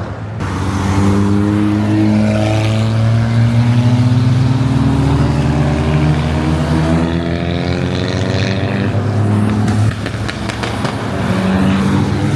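A BMW X3 M's straight-six engine accelerating hard under load, its pitch climbing steadily for several seconds. Near ten seconds in there is a brief drop, like a gear change, and then it pulls again.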